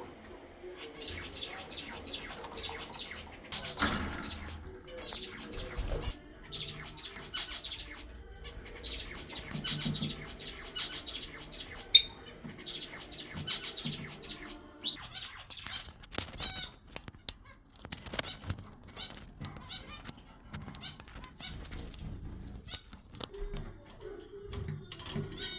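A mixed flock of aviary parrots chattering and chirping in rapid runs of high calls, with scattered clicks and one sharp, loud click about halfway through.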